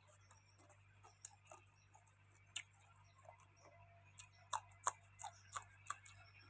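Eating sounds: a dozen or so short, sharp clicks and crunches at an uneven pace, most of them in the second half, as grilled field rat is chewed and handled.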